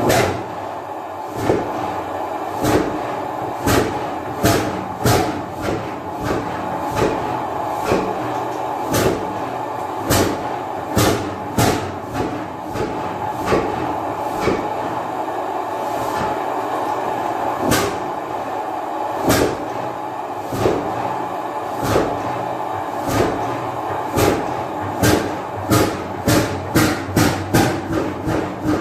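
Ninety-year-old 35 hp hot-bulb oil engine running slowly, each firing a sharp knock over a steady hum. The knocks come unevenly about once a second, then closer together, two or three a second, in the last few seconds.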